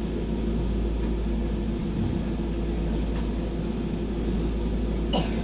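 Steady low hum inside a Docklands Light Railway train, with a faint click about three seconds in and a short sharp noise near the end.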